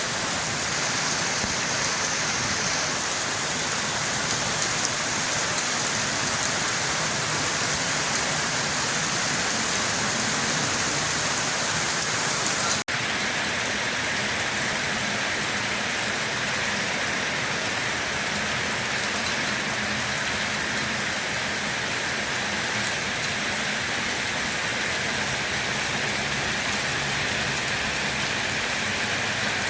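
Steady rain falling, an even hiss of drops. About thirteen seconds in, the sound cuts out for an instant and resumes with a slightly different tone.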